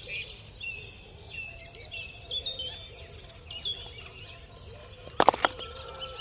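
Birds chirping and calling, many short twittering notes. A quick cluster of sharp clicks comes about five seconds in.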